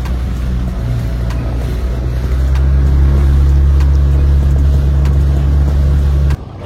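Boat engine running steadily, getting louder with a higher, fuller hum about two seconds in, then cut off abruptly near the end.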